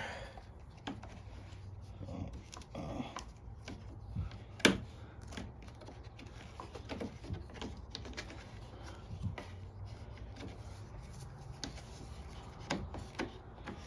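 Scattered light clicks and knocks of air filter parts and the plastic filter housing being handled and fitted on a Briggs & Stratton lawn mower engine, with one sharp click about four and a half seconds in.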